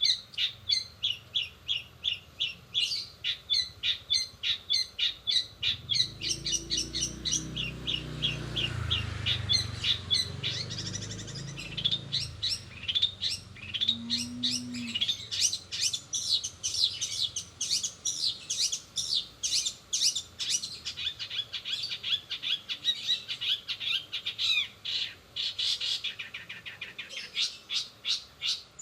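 Long-tailed shrike (cendet) singing a fast, unbroken run of sharp high chirps and trills, its song filled with mimicked notes of sparrows and canaries.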